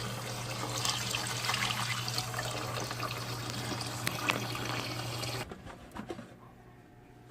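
Water running steadily from a tap, filling a pot, shut off abruptly about five and a half seconds in, followed by a few light knocks.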